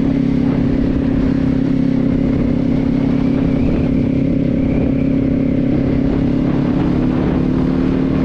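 Kawasaki Z400's parallel-twin engine running at a steady cruising pitch while riding, with wind rumble on the microphone.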